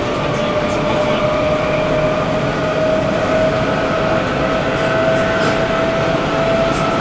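Sendai Subway Namboku Line 1000N-series train heard from inside the car while running. Its traction motors give a steady whine that rises slowly in pitch as the train gathers speed, over the running noise of the wheels on the rails.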